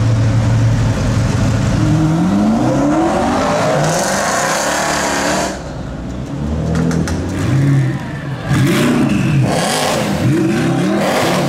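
Mercedes-Benz C63 AMG Black Series 6.2-litre V8 through a catless exhaust, pulling hard with the pitch rising through the revs. After a sudden cut it revs again in a series of quick rising-and-falling blips.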